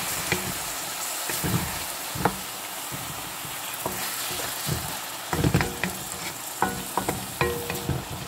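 Chicken pieces sizzling in oil in a wok, stirred with a wooden spatula that knocks and scrapes against the pan again and again, the loudest knocks about five and a half seconds in.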